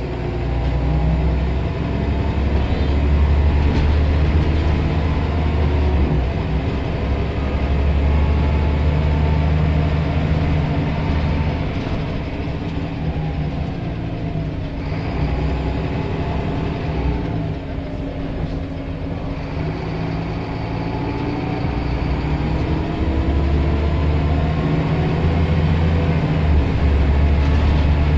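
Scania L94 single-deck bus's diesel engine and drivetrain running, heard from on board, with road noise. The low engine note eases off and picks up again several times as the bus slows and pulls away.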